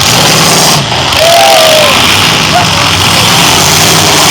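Demolition derby car engines running loud and distorted, with voices heard over them.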